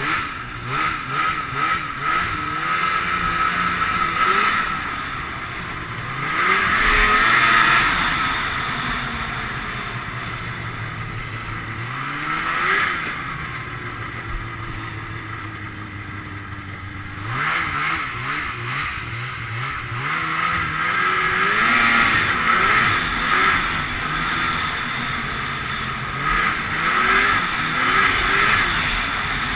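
Ski-Doo Blizzard 5500 snowmobile's fan-cooled Rotax twin two-stroke under way, revving up and easing off several times. It climbs hard at about 6 seconds, and again around 12, 18, 22 and 27 seconds. Between about 9 and 17 seconds it settles back and winds down.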